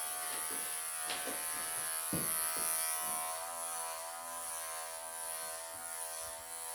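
Wahl professional electric pet clippers buzzing steadily as they shave a Persian cat's thick, matted coat close to the skin, their pitch wavering slightly partway through. A few brief rustles or handling noises come about one and two seconds in.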